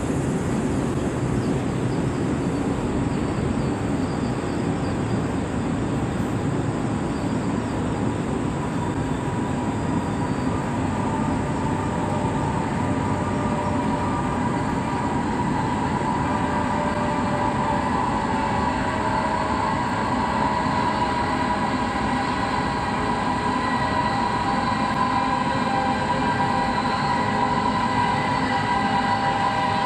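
Union Pacific train rolling across a high steel railway viaduct, a steady rumble of wheels and cars. In the second half, squealing tones of steel wheels on rail come in and grow louder.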